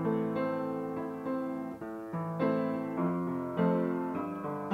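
Soft piano background music: slow, sustained notes and chords, each struck and left to fade.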